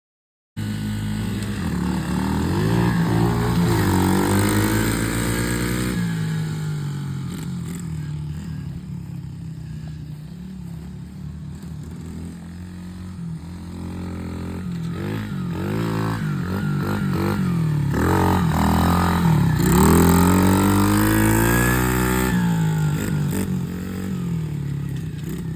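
A small off-road motorbike being ridden, its engine revving up and down with the pitch rising and falling again and again. It cuts in abruptly about half a second in and is loudest twice, a few seconds in and again near twenty seconds, as the bike comes close.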